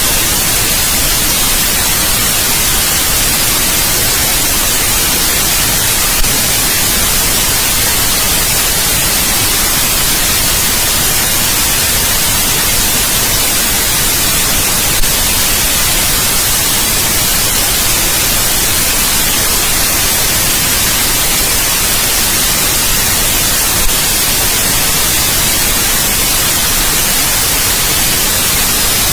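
Steady synthetic white noise: an even, unchanging hiss strongest in the high range, with three brief faint clicks spread through it.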